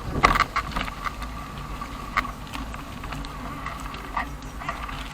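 Bicycle being ridden: irregular clicks and rattles over a steady faint high whine, the loudest knock just after the start.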